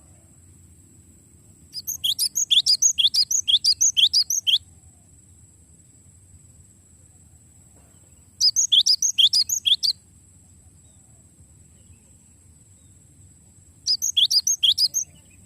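Cinereous tit (gelatik batu) singing in three bouts of rapid repeated notes, each note sweeping downward, about four a second. The first bout lasts about three seconds and the other two are shorter.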